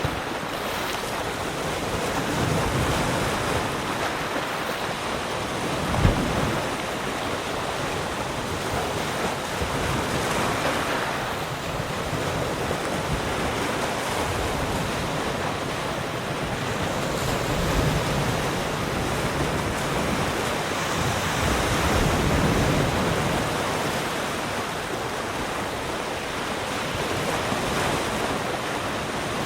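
Sea surf: waves breaking and washing on the shore in a continuous rush that swells and eases every few seconds, with a brief low thump about six seconds in.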